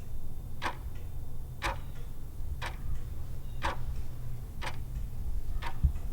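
Clock-style ticking of a quiz countdown timer, one tick a second, counting down the time to answer, over a steady low hum.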